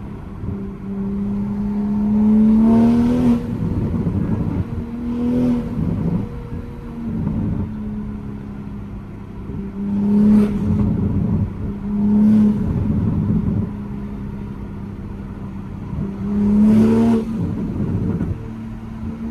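Engine of a tuned MK5 Toyota Supra driving, revving up about five times in short pulls, each ending with a brief noisy burst as the throttle lifts. Between the pulls it cruises at a steady drone.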